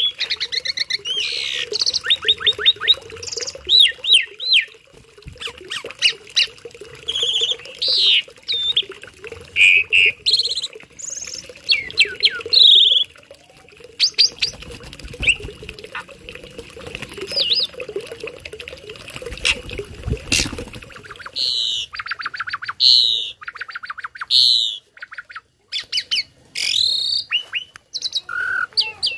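Caged jalak starling singing a long, varied song: quick chirps, rapid trills, whistled glides and harsh squawky bursts, with short pauses between phrases. A faint steady hum runs underneath.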